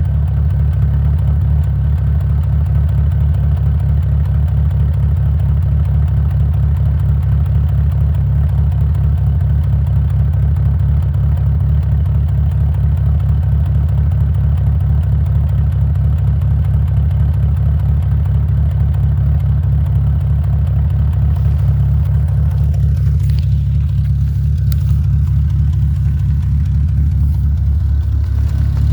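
1994 Plymouth Acclaim's 2.5L four-cylinder engine idling steadily at the tailpipe, still warming up after a cold start. The exhaust note goes duller about three-quarters of the way through.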